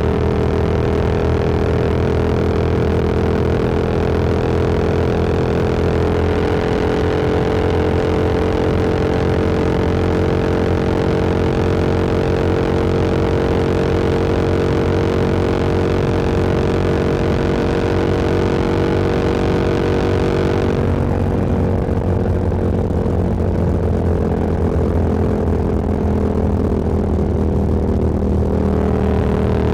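Motorcycle engine running at a steady cruise, heard from the rider's seat with wind hiss over it. About two-thirds of the way through, the hiss drops away and the engine note sinks a little, as on closing the throttle. Near the end the hiss builds again.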